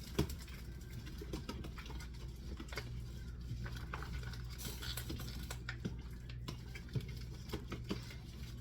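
Pieces of yam and dumpling dough being dropped into a pot of soup, an irregular scatter of small taps and plops. A steady low hum runs underneath and grows stronger about three seconds in.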